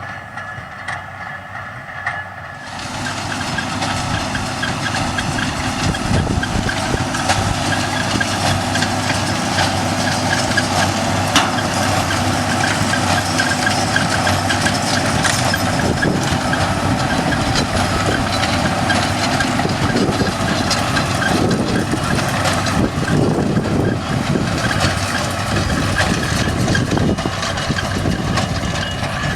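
Steady noise of a heavy vehicle running, which swells in about two and a half seconds in and stays loud.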